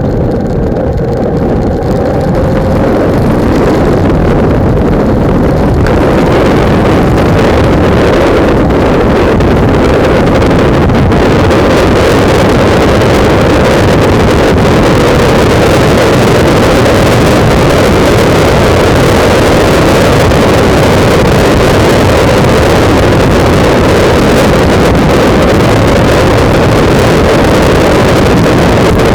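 Loud wind buffeting the microphone of a camera mounted on a motorcycle at riding speed, with the bike's engine running underneath. It grows louder over the first few seconds, then holds steady.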